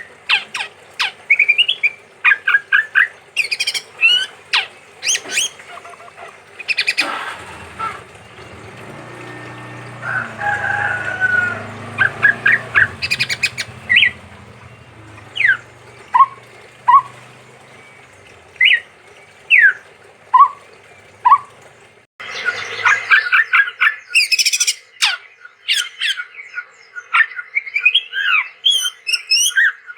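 Male chestnut-rumped babbler (tepus tunggir merah) singing: quick runs of short, sharp whistled notes, many sliding up or down. A low rumble and a longer wavering call sit in the background about a third of the way in, and about two-thirds through the recording changes abruptly to a denser, busier run of notes.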